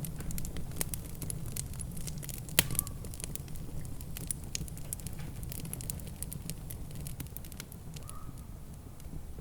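Wood fire crackling in a fireplace: many small irregular crackles and pops over a steady low rumble, with one loud pop about two and a half seconds in.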